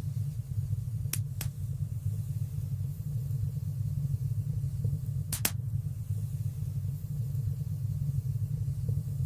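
Wood fire burning in a stone fireplace: a steady low rumble of flames with sharp crackling pops, two close together about a second in and a stronger one a little past halfway.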